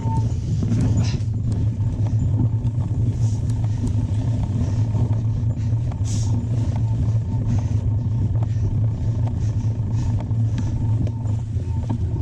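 Mountain bike ridden over a trail: a steady, loud low rumble with scattered clicks and rattles throughout.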